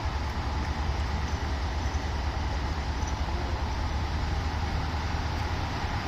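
Sightseeing diesel train running with a steady low rumble, no clatter or braking.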